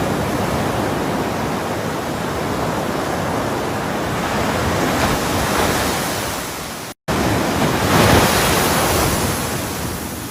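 Ocean waves breaking and washing ashore in a steady rush of surf. About two-thirds of the way through, the sound cuts out completely for a split second, then another wave surges up.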